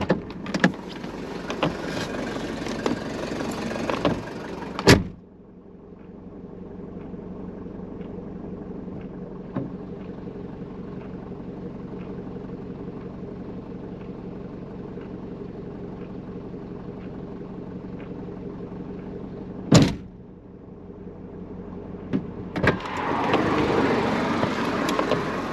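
Mercedes 190D diesel engine idling steadily while the engine bay is checked, with clicks and handling noise at the start and near the end. Two sharp knocks come at about five and twenty seconds.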